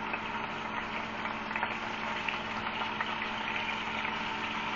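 Cubed chicken breast frying in a hot pan of oil with soy sauce and ginger marinade: a steady sizzle with small pops, over a faint steady hum.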